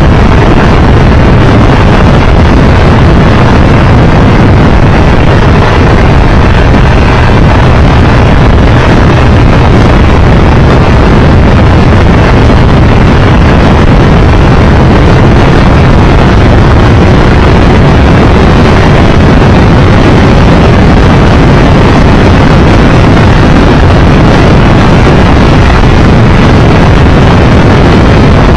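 Triumph Tiger Explorer 1200 motorcycle under way: loud, steady wind noise on the microphone over the engine's even drone.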